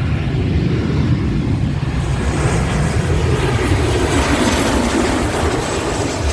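Jet airliner landing, its engines giving a loud, steady rumbling roar.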